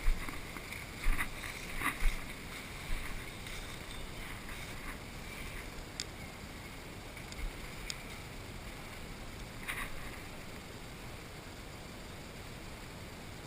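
Steady rushing noise like wind on the microphone, with several thumps in the first three seconds, two sharp clicks in the middle and a short noisy burst near the end.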